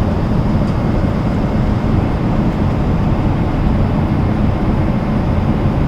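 Steady cabin noise of a Boeing 777-300ER in cruise: an even rush of airflow and engine drone, heaviest in the low end, with no change in level.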